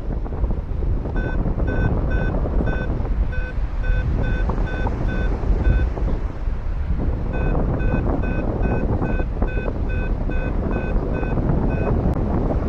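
Paragliding variometer beeping its climb tone: short, evenly spaced high beeps, about three a second, in two runs broken by a pause near the middle, the sign that the glider is rising in lift. Heavy wind rumble on the microphone throughout.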